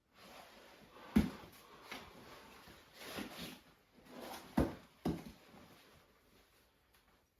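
A few dull knocks and thumps, the loudest about a second in and again past the middle, over a faint steady hiss.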